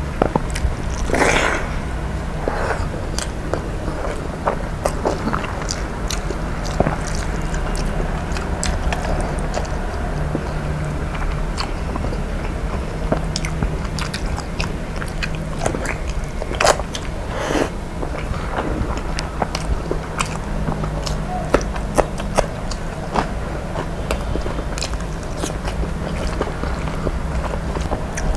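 A person chewing and biting food close to the microphone: wet mouth sounds with scattered clicks and smacks, over a steady low hum.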